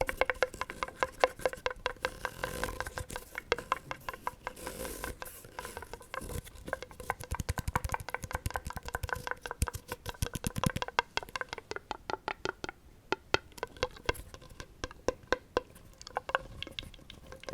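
Rapid, gentle ASMR tapping on a hard object that rings with a faint pitch, many light taps a second.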